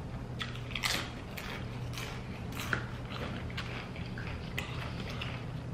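Close-up chewing of crunchy tortilla chips, with irregular crisp crunches and wet mouth sounds, over a steady low hum.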